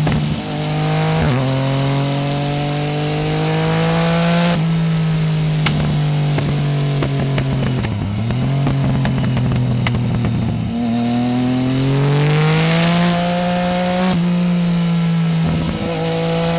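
Yamaha Tracer 900 GT's three-cylinder engine through a full Roads Italia aftermarket exhaust, pulling up through the revs with quick gear changes, easing off about eight seconds in, then accelerating hard again.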